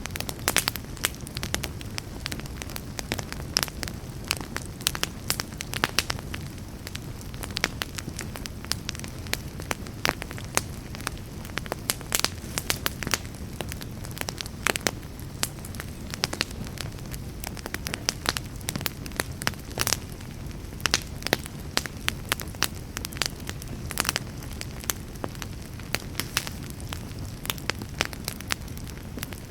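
Fire burning in a fireplace, with frequent irregular sharp crackles and pops over a steady low rumble of the flames.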